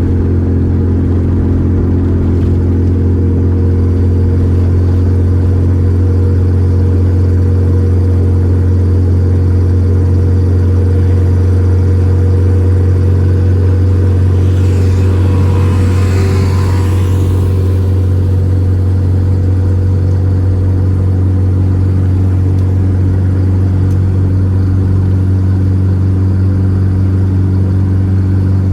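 Volkswagen Gol G4 Rallye's four-cylinder engine droning steadily at an even speed while the car cruises. About halfway through, a brief rush of hiss-like noise rises and fades over the drone.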